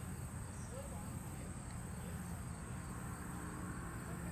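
Insect chorus: a steady high-pitched trill, over a continuous low rumble.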